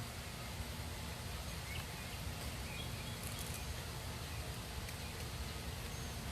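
Steady low rumble of outdoor background noise, with a few faint, short high chirps near the middle.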